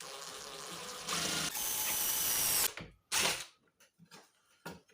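Power drill boring into pressed sheet steel, running for about two and a half seconds and getting louder about a second in as the bit bites, then stopping, with a short second burst soon after.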